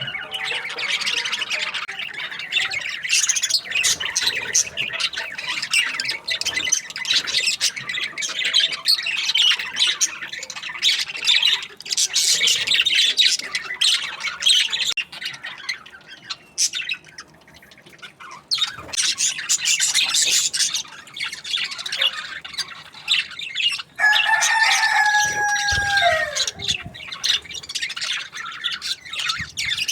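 A flock of budgerigars chirping and chattering busily, with a brief lull past the middle. Near the end one louder, longer call holds a steady pitch and then drops off.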